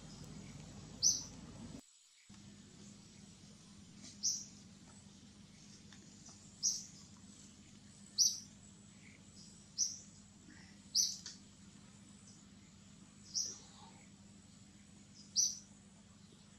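A bird calling in the forest canopy: a short, high-pitched note repeated eight times, roughly every two seconds, over faint steady background ambience.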